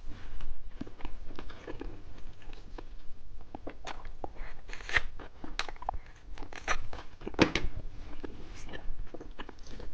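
Candy being handled and eaten close to the microphone: irregular crinkling and crunchy clicks, with a few louder ones around the middle.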